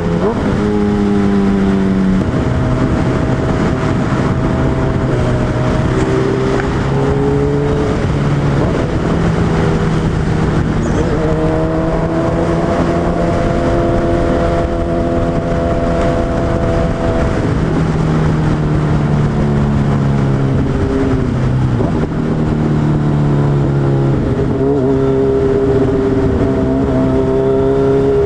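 Suzuki Hayabusa's inline-four engine running as the bike rides, its pitch rising and falling several times, over a steady rushing noise.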